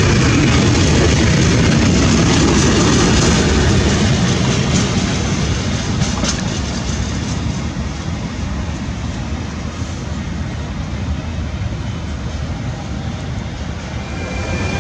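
Container freight train's wagons rolling past on the rails, a steady rumble of wheels and rattling that fades from about four seconds in as the last wagons move away.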